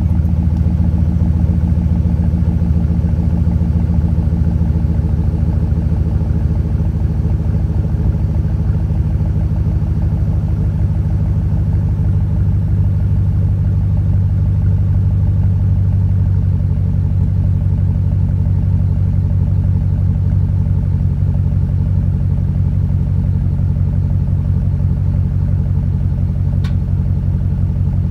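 Exhaust of a 2013 Chevrolet Silverado's 5.3-litre V8 idling steadily after a cold start, through an 18-inch Dynomax Bullet muffler in place of the factory muffler. The idle eases slightly partway through, and there is a single faint click near the end.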